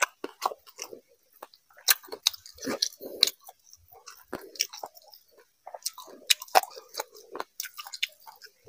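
Close-up, wet chewing of a mouthful of rice and fish curry, with irregular sticky lip and mouth smacks. A hand squishes and mixes rice through the gravy on a steel tray.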